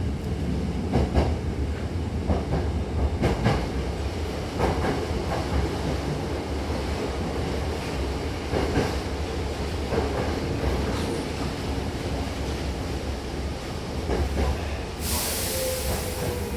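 Hankyu electric train running with a steady rumble and a few clicks of the wheels over rail joints, then a burst of compressed-air hiss about 15 seconds in.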